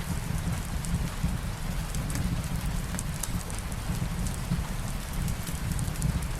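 Steady rain falling, with scattered crackles from a wood fire in a fireplace.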